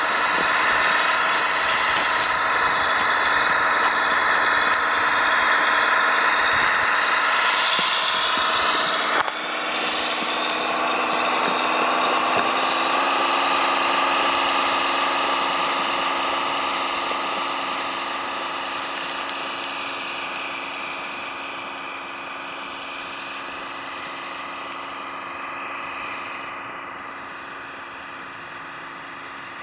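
The motor of a radio-controlled model machine running steadily. Its sound changes abruptly about nine seconds in, then slowly fades away over the last ten seconds or so.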